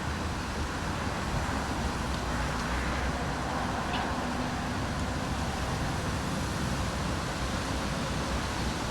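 Steady storm noise: an even hiss of rain and wind over a constant low rumble.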